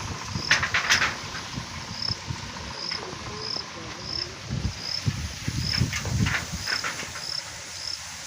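An insect, likely a cricket, chirping steadily in short, evenly spaced high-pitched pulses, about two a second. Brief rustling and low knocks sound at times underneath.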